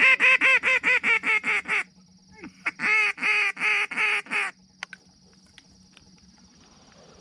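Duck call blown in rapid repeated notes, about six or seven a second, to draw in incoming ducks. There are two runs: the first stops about two seconds in, and the second lasts from about three to four and a half seconds. A faint steady high-pitched hum stays underneath.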